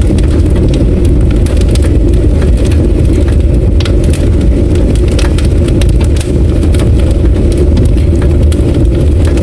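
A loud, steady low rumble with many faint scattered clicks and ticks over it.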